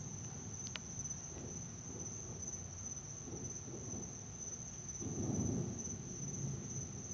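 Insects trilling in one steady high-pitched chorus over a low, uneven rumble that swells for about a second, five seconds in.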